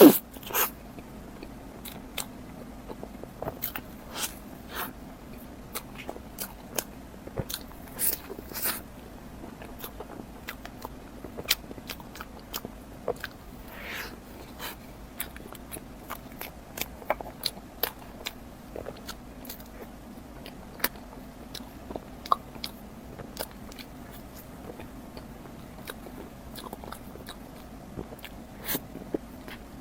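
Chewing and biting mouth sounds from eating a towel roll, a soft crepe roll cake filled with cream: irregular short clicks and smacks scattered throughout.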